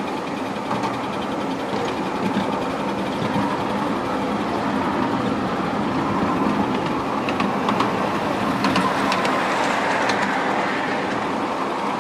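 Miniature railway train running along the track, its wheels clicking over the rail joints. It grows a little louder through the middle, with a run of sharper clicks in the second half.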